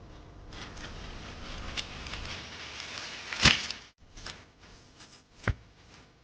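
Rustling with light clicks, then a loud sharp knock about three and a half seconds in and a second knock about two seconds later.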